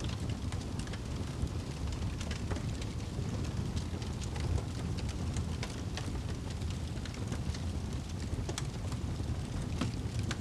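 Wood fire crackling, with scattered sharp pops at irregular moments, over a steady low rumble of wind.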